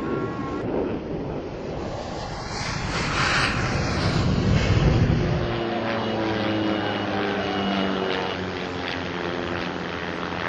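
An airshow aircraft flies past: a rushing engine noise builds to a peak about four to five seconds in. It then gives way to a steady droning engine note with several tones that slowly fall in pitch.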